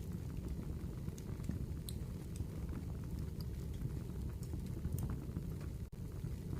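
Wood fire crackling: a steady low rumble of burning logs with scattered sharp pops and snaps. It cuts out for an instant near the end.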